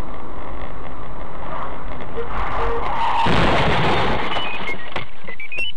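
Car road noise on a dashcam, with two short beeps and then a loud, noisy crash-like impact about three seconds in, followed by a few short stepped tones.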